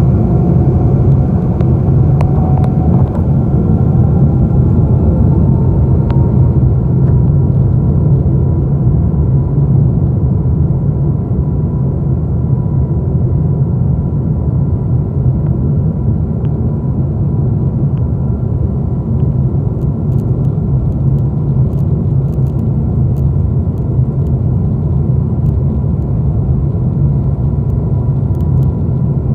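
Boeing 777 jet engines spooling up to takeoff thrust, heard from inside the cabin: the engine whine rises in pitch over the first several seconds and then holds, over a loud, steady rumble of the takeoff roll.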